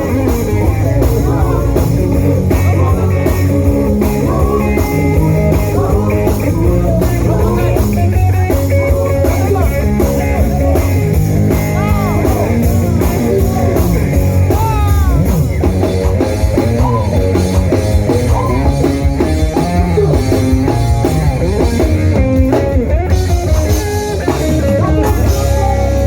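Live gospel praise music from a band: electric guitar and drum kit with singing, at a fast, steady beat.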